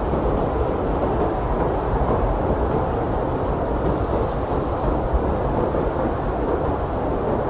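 Blizzard wind blowing steadily, a deep, even rush with no single gust standing out.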